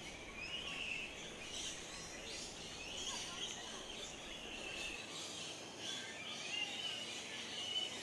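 Birds chirping and calling in the background: many short, quick calls, some rising or falling in pitch, over a steady outdoor hiss.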